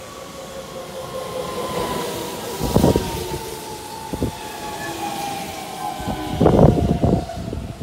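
Keihan 13000 series electric commuter train passing at low speed, its motor whine falling slowly in pitch. Its wheels thud over rail joints about three seconds in, once more a little later, and in a louder cluster near the end.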